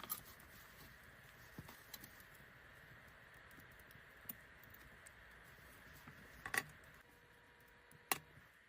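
Wood fire crackling: a few sharp, irregularly spaced pops, the two loudest near the end, over a faint steady hiss.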